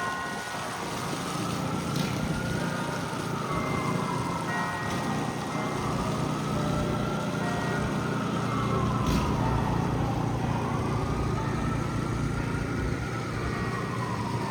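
Emergency vehicle siren wailing, its pitch slowly rising and falling in long sweeps, over a steady low rumble of city traffic.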